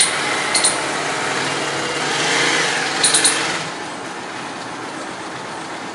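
Palm squirrel chirping in short, sharp, high chips: a couple near the start and a quick run of three about three seconds in. Steady traffic noise runs underneath and swells about two seconds in as a vehicle goes past.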